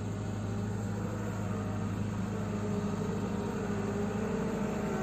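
JCB 3CX backhoe loader's diesel engine running steadily, with a wavering higher tone over the low engine note, growing slightly louder.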